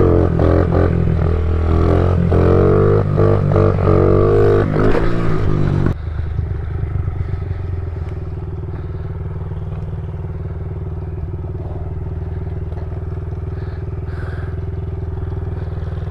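Small pit bike engine running hard, its pitch rising and falling as the throttle is worked, for about six seconds. It then gives way abruptly to a steady, lower and quieter engine note.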